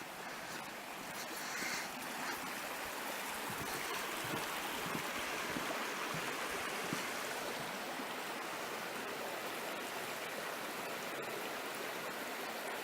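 A creek flowing steadily, a continuous rush of water that grows louder over the first two seconds and then holds.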